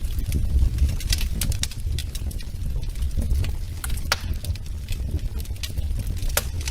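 Wood fire burning in a fireplace: irregular sharp crackles and pops over a steady low rumble of the flames, with a louder pop about four seconds in and another near the end.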